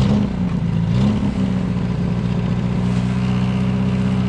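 VAZ 2107's inline-four engine just caught on a cold start in hard frost, its revs rising briefly at the start and again about a second in, then settling into a steady idle.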